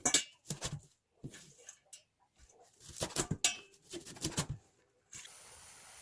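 A rapid run of sharp knocks and clatters lasting about four seconds, then a steady faint hiss from about five seconds in.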